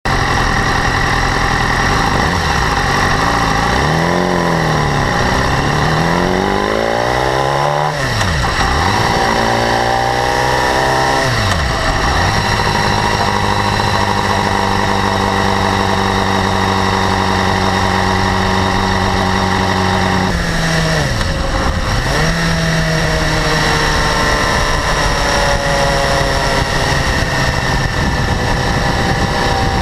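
2012 BMW S1000RR inline-four engine idling, its revs swinging up and down several times between steady stretches, with a high-frequency ticking. The ticking was not there when the bike was new and has grown louder; the owner wonders whether it comes from valve clearance or the exhaust interference-pipe flaps.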